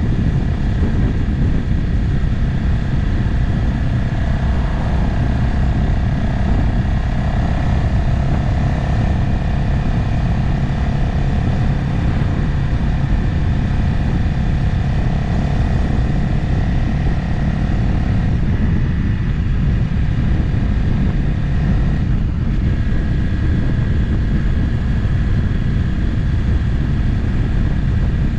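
Motorcycle riding at a steady cruise: a continuous engine drone over a deep rumble, with a mid-pitched engine tone that drops away about two-thirds of the way through.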